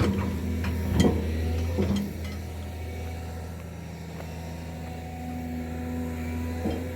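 A vehicle engine running steadily, with several sharp knocks and rattles in the first two seconds.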